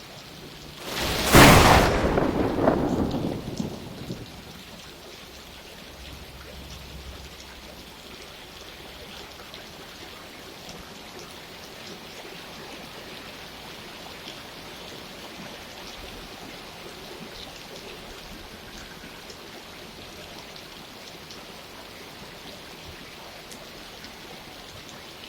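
Steady rain falling, with a sharp thunderclap about a second in that rumbles away over the next few seconds.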